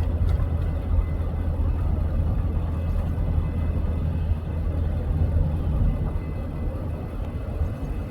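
Freight train rolling past, a steady low rumble of wheels and rail with a faint high ringing tone over it.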